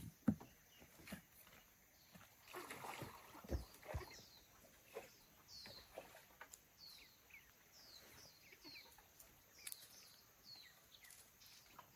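A bird calling in short, high, falling chirps about once a second, over scattered knocks and a brief rustle.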